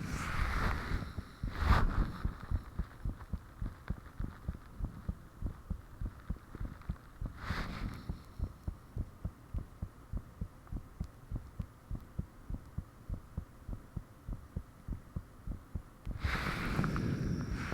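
A person's heartbeat picked up close to the body: a steady, even train of low thumps. Short rushing noises break in just after the start, once about seven seconds in, and again near the end.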